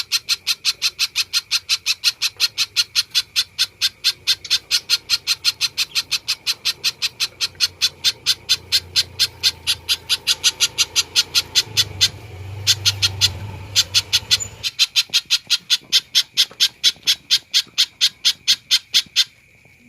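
A spiderhunter (pijantung) calling continuously, a rapid run of sharp, evenly spaced high notes at about four or five a second. The run falters briefly partway through and stops near the end.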